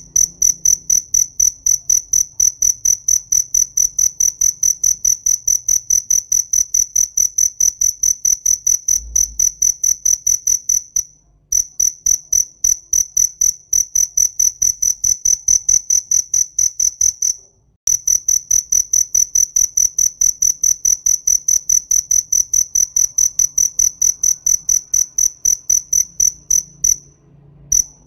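A cricket chirping loudly in a steady, even rhythm of about four high-pitched chirps a second, stopping briefly three times before starting again.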